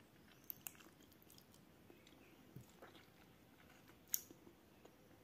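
Faint chewing of chicken eaten by hand, with scattered small mouth clicks; the sharpest click comes about four seconds in.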